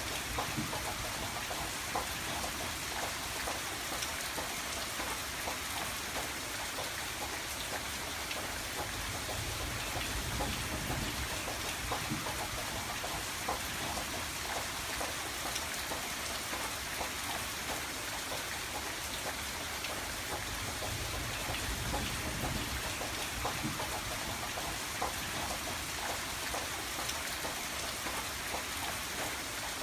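Steady rain falling on a window, many small drops ticking against the glass over a constant hiss, with a low rumble that swells and fades now and then.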